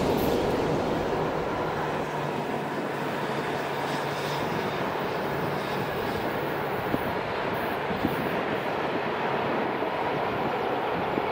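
Electric train approaching in the distance: a steady rushing rumble of the locomotive and its wheels on the rails. A low hum fades out about four seconds in.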